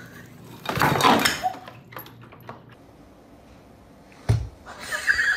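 A clatter about a second in as boxes and bottles are knocked off a radiator by a cat. Near the end comes a single dull thunk as a cat drops onto a desk.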